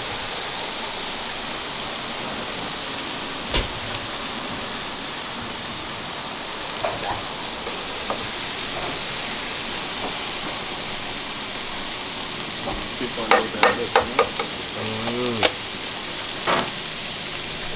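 Chopped onion, tomato and sweet pepper sizzling steadily in hot oil in a skillet. A wooden spoon now and then scrapes and knocks against the pan, with a quick run of clicks about thirteen seconds in.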